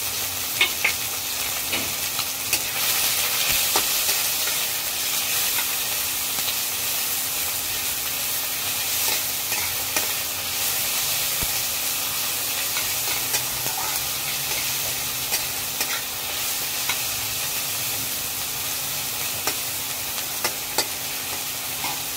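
Sliced onions and tomato sizzling in hot oil in a kadai, stirred with a metal spatula that clicks and scrapes against the pan now and then.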